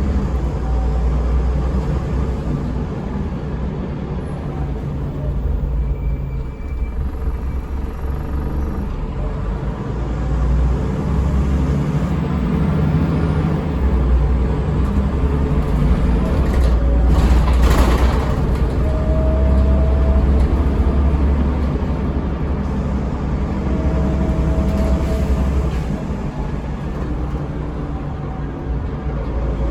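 Scania L94UB bus with a Scania DC9 five-cylinder diesel and ZF Ecomat automatic gearbox, heard on board while under way: a steady low engine drone, with short rising tones now and then as it pulls. A brief hiss comes a little past halfway.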